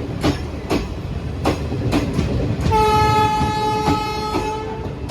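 Passing express train's wheels clattering over rail joints, with a locomotive horn sounding one steady, held note for about two seconds starting just under three seconds in.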